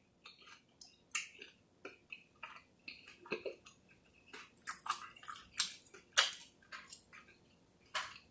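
A person chewing and eating chicken wings: a string of short, irregular, wet smacks and clicks of the mouth.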